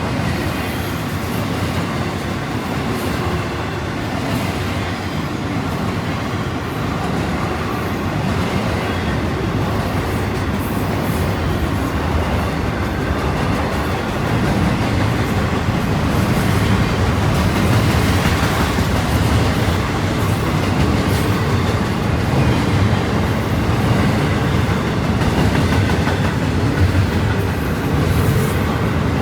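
Union Pacific intermodal stack train's cars rolling steadily past, steel wheels rumbling and clattering on the rail.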